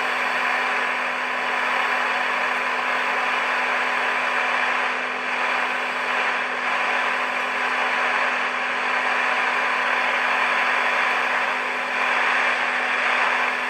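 Marconi model 2004 seven-transistor radio's speaker giving a steady hiss of static, with a faint steady tone running through it.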